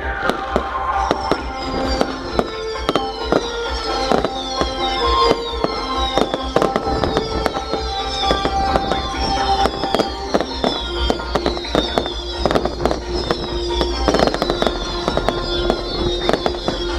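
Fireworks going off in rapid succession: a dense crackle of bangs mixed with many short high whistles, each falling in pitch. Music plays underneath.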